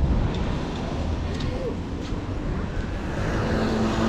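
Steady low vehicle rumble with wind noise on the microphone, and a steady low tone coming in near the end.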